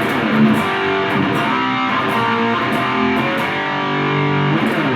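Electric guitar played through an Abeid Custom Mid Gain overdrive pedal with its gain turned up to about three o'clock, heavily distorted, the notes and chords ringing out and sustaining.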